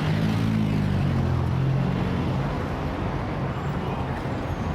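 Heavy city traffic: a steady din of many vehicles, with the low drone of a nearby engine running slowly underneath.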